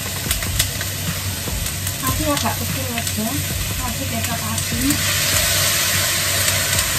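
Food sizzling in a hot pan as it is stir-fried, with occasional sharp clicks of the spatula against the pan. The sizzling gets louder about five seconds in.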